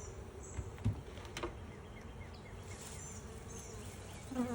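Honey bees buzzing around a just-closed hive, a steady low hum with a couple of light knocks early on.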